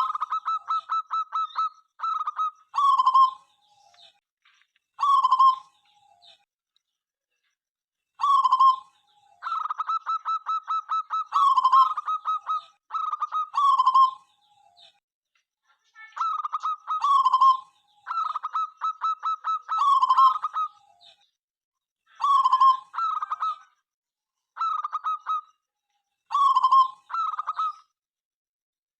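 Zebra dove (perkutut) cooing in repeated song phrases, each a quick run of rapid stuttering notes ending in lower, rolling coos, with short pauses between phrases.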